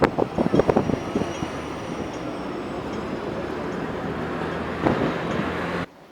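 Steady noise of a vehicle in motion, with a cluster of knocks in the first second and another near the end, cutting off suddenly shortly before the end.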